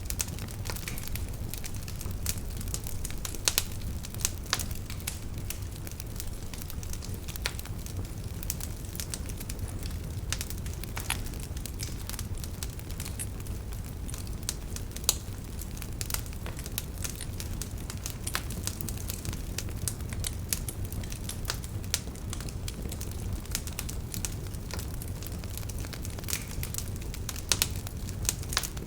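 Fire in a fireplace crackling: irregular sharp pops and snaps, a few louder than the rest, over a steady low rumble of the flames.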